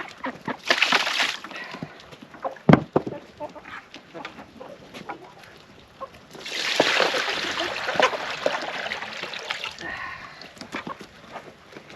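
Chickens clucking, with a sharp knock about three seconds in and a few seconds of noisy rustling in the second half.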